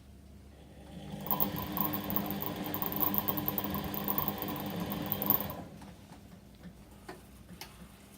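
Whirlpool washing machine's motor turning the drum in a delicate wash cycle: a steady motor hum with a high whine that starts about a second in, runs for about four and a half seconds, then stops.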